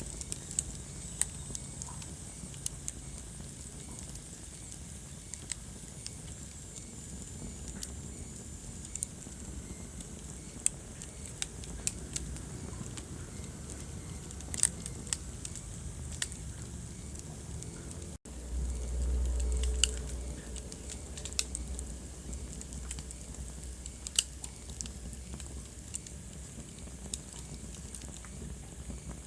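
Wood fire crackling in a fireplace: irregular sharp pops and snaps over a low, steady rush of burning. About two-thirds of the way through the sound breaks off for an instant, then a louder low rumble runs for a couple of seconds.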